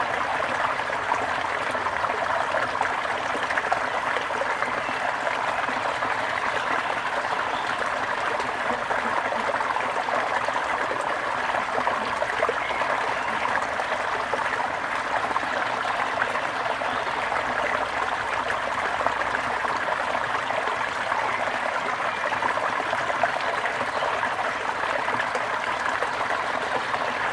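Stream of water trickling steadily, an even rushing babble with no change.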